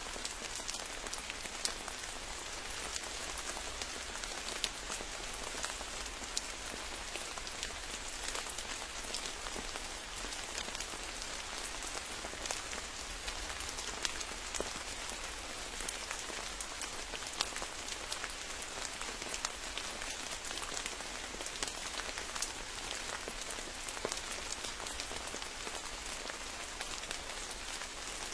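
Steady rain pattering in a forest, with many individual drops ticking close by.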